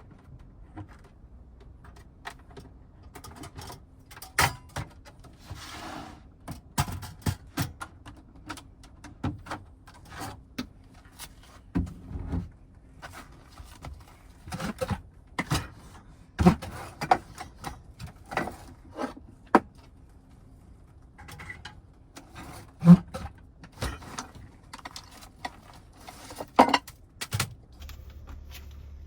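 Objects being handled at close range: a long run of irregular clicks, knocks and light clatter, with a sharp knock about two-thirds of the way through, over a faint steady hum.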